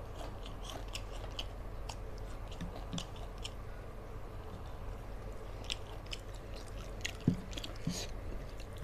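Close-up chewing and lip smacking of a man eating rice and fried fish by hand, with many short irregular clicks from the mouth, over a steady low hum.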